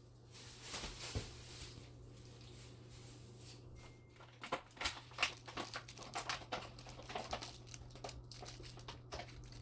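Crinkling and rustling with many small clicks and taps of things being handled, sparse at first and busier from about halfway, over a steady low hum.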